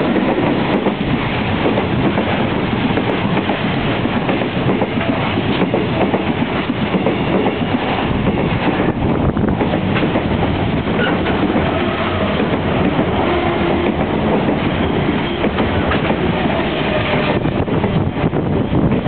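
Container freight wagons rolling past close by at speed: a loud, steady noise of steel wheels running on the rails.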